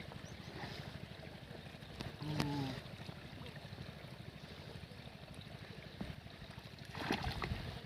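Faint running water with a low steady rumble. A brief voiced sound comes about two and a half seconds in, and a short noisy burst near the end.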